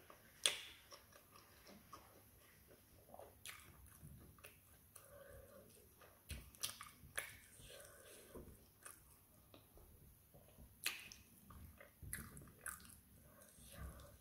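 A person chewing and biting fried plantain eaten by hand, with scattered sharp clicks and taps. The loudest click comes about half a second in.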